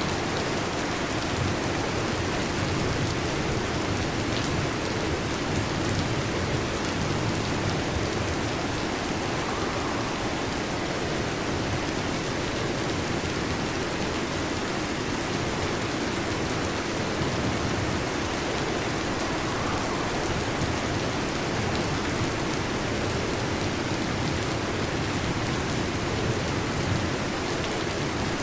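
Heavy rain falling steadily on a metal roof, a dense even patter with no break or swell.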